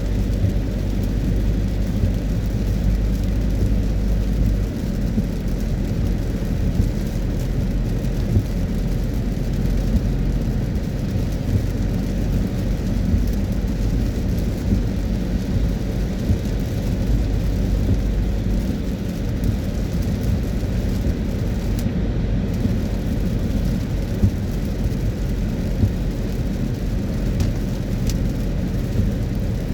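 Steady low rumble of a car driving on a wet road in the rain, with rain noise over it.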